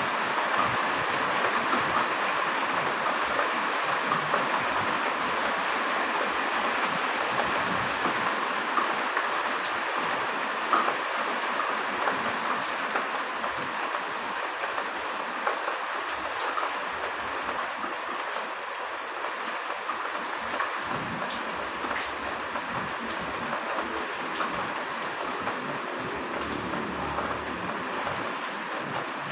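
Steady heavy rain falling, with many small drop ticks, easing slightly over the second half.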